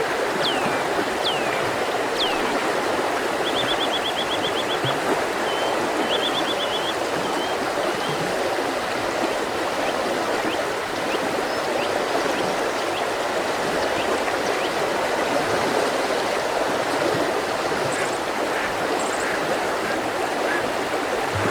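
Mountain river rushing steadily over rocks, with small birds calling over it: a few downward-sliding whistles at the start, then two short rapid trills, and faint high notes near the end.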